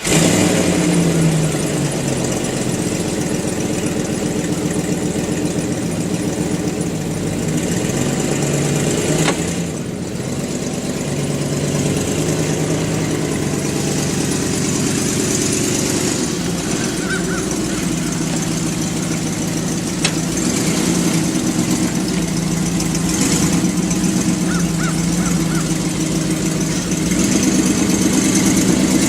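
A vehicle engine running steadily just after being started, its note dipping briefly about ten seconds in and growing a little louder near the end.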